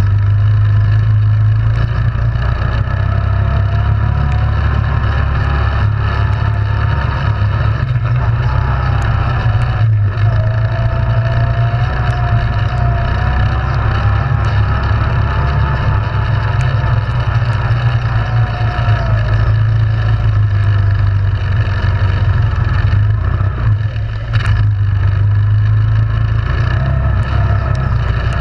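ATV engine running steadily under way, with a fainter whine that slowly rises and falls in pitch through much of the first two-thirds.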